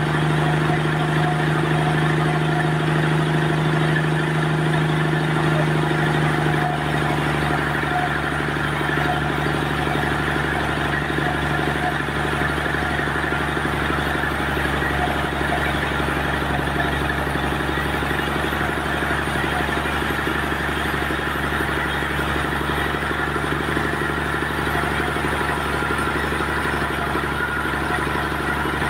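Sawmill machinery running steadily with a low hum; the hum eases slightly about six or seven seconds in.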